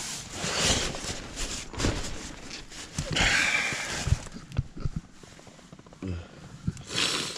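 Irregular bursts of rustling with soft knocks and clicks as camping gear is handled, the loudest rustle about three seconds in and another near the end.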